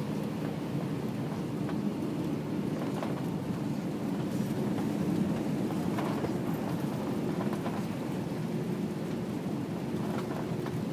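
Jet airliner cabin noise during an approach to land: a steady low drone of engines and airflow, with a few faint rattles.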